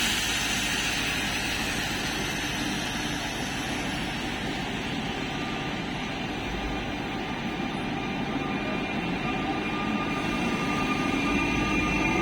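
Electric Minuetto multiple unit ME041 running by: a steady rumble of wheels and running gear, with a whine coming in and the sound growing louder near the end.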